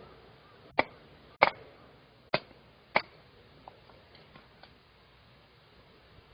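Four sharp knocks, spaced roughly half a second to a second apart, followed by a few faint ticks.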